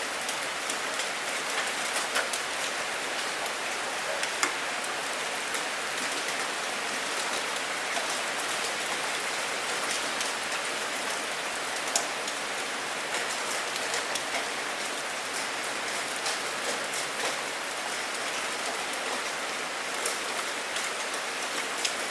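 Steady rain falling on a surface: an even hiss with many sharp individual drop hits ticking through it.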